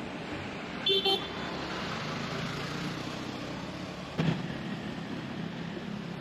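Street traffic running steadily, with a vehicle horn giving a short double toot about a second in and a brief thump a little after four seconds.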